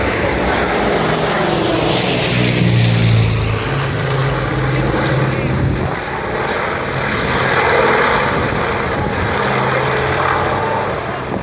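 Propeller-driven firefighting aircraft passing with a loud, steady engine drone. It is loudest about two to three seconds in and swells again near eight seconds.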